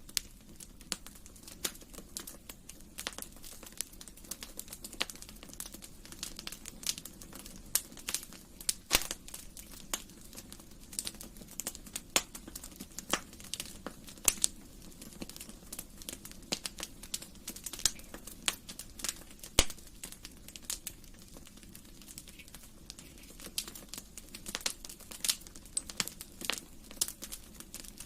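Wood fire crackling in a fireplace: irregular sharp pops and snaps, a few louder ones, over a low steady rush of the burning fire.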